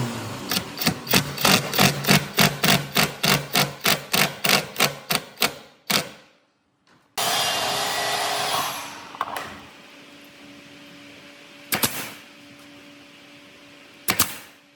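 Rapid hammering, about four blows a second, fading out after about five seconds. After a short break, a rushing hiss settles into a low steady hum, with two single knocks near the end.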